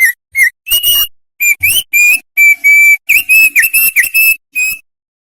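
Opior songbird singing: clear whistled notes, first a few short ones about twice a second, then a quicker run of varied, partly sliding notes that stops shortly before the end.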